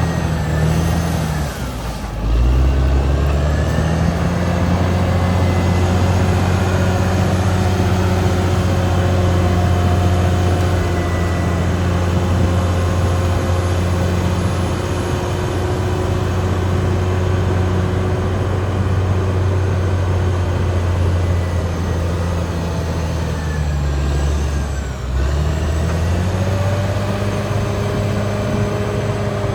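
Caterpillar D6R XL crawler dozer's diesel engine running steadily under work, with a higher whine alongside it. Twice, about two seconds in and again late on, the engine note sags and then climbs back up.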